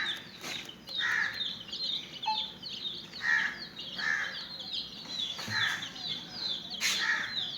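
Baby chicks peeping continuously in many quick, high chirps, over louder, lower calls that come roughly once a second.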